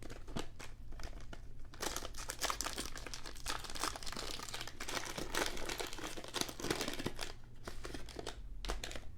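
Plastic wrapper of a Donruss basketball card fat pack being torn open and crinkled by hand. A few light crackles, then about six seconds of dense crinkling and tearing, then a few more crackles near the end.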